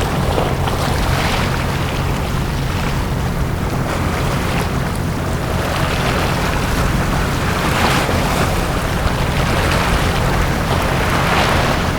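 Small sea waves washing onto a beach, the surf swelling and falling back every three to four seconds, over a steady low rumble.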